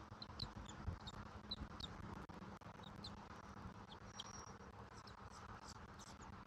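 Faint, scattered high-pitched bird chirps, a few each second, with one thin held whistle about three seconds in.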